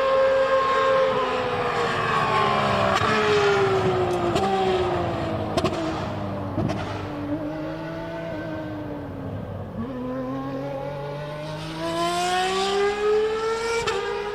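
Ferrari Formula 1 car engine at high revs. Its pitch falls steadily over several seconds, broken by a few sudden clicks, to a low point about ten seconds in, then rises again as the engine revs back up near the end.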